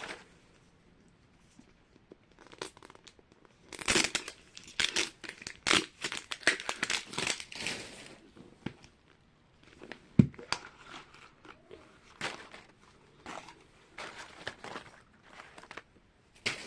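Small plastic blind-bag packets crinkling and tearing open in quick bursts, busiest in the middle, with a single sharp knock about ten seconds in.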